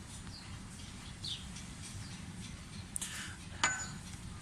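Faint bird chirps over a low steady hum, then two sharp metallic clinks near the end, the second ringing briefly.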